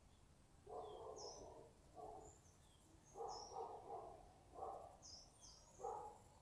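Faint background bird sounds: short high chirps every second or so, with softer, lower calls in between.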